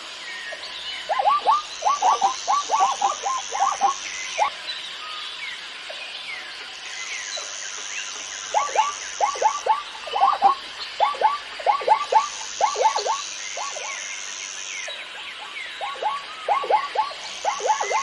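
Zebra calling: three bouts of rapid, repeated yelping barks, each falling in pitch and each bout lasting a few seconds. Behind them are a high buzzing that comes and goes and faint chirps.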